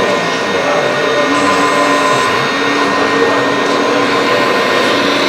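Radio-controlled scale hydraulic excavator running, its electric hydraulic pump giving a steady whine. Several tones hold and change as the machine works; one low tone comes in a little over a second in.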